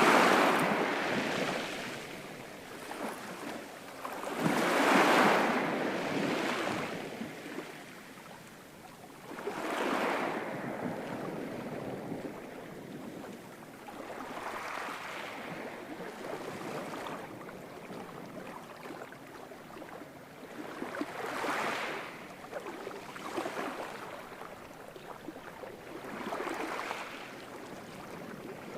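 Ocean waves breaking and washing up the shore in slow surges, one about every five seconds, each swelling and then fading into a softer wash. The first two surges are the loudest.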